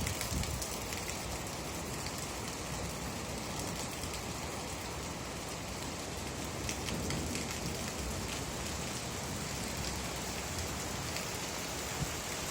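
Steady rain falling on a surface, a continuous hiss with many small drop ticks.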